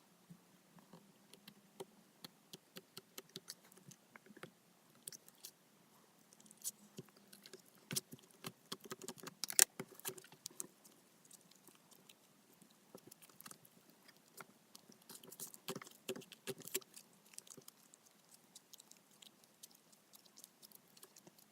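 White base slime being played with, giving irregular small sticky clicks, crackles and pops, busier in the middle and again later, with one sharper pop about ten seconds in.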